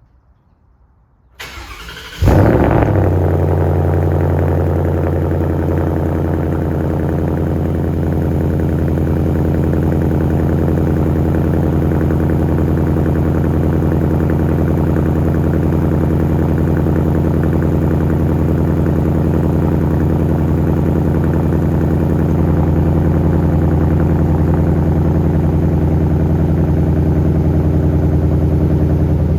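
2021 Ford Mustang Mach 1's 5.0-litre V8 cold-started through its stock exhaust. The starter cranks briefly about a second and a half in, the engine catches with a loud flare just after two seconds, then settles into a steady cold idle.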